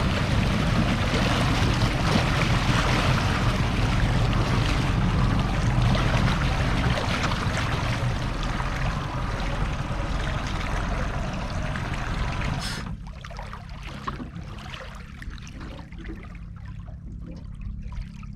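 Mercury 150 hp four-stroke outboard running a fishing boat under way, its engine drone mixed with a loud rush of wind and water. About two-thirds of the way through the rush drops away suddenly, leaving a quieter, steady low engine hum with water trickling.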